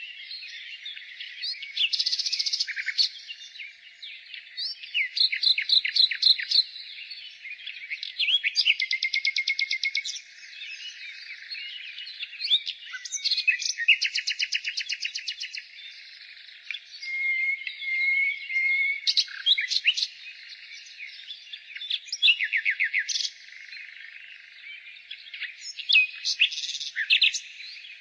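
Nightingale singing: a string of varied phrases, each a second or two long with short pauses between, made of rapid trills of repeated notes mixed with a few clear held whistles.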